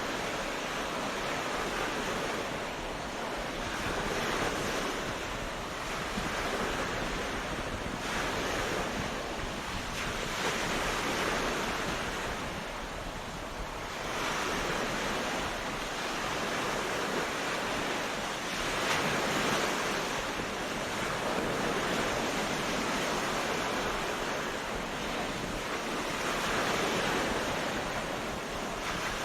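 Ocean waves breaking and washing on a beach, a steady surf that swells and eases every few seconds.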